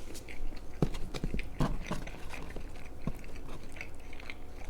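Close-up chewing of keto-crust pizza, with irregular wet mouth clicks and smacks.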